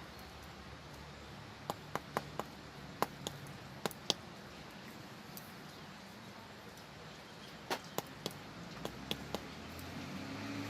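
Sharp stone-on-stone clicks and knocks from a sil-batta, the hand stone striking and crushing on the flat grinding slab, in irregular clusters of two to four over a faint low hum.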